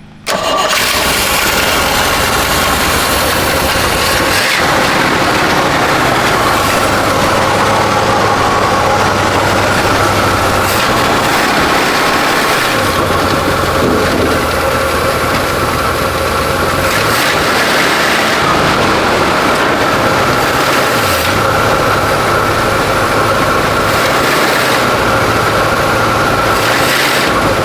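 The 1970 Chevy C-40 truck's engine starts within the first second and keeps running loud and steady, swelling briefly several times as it is given throttle.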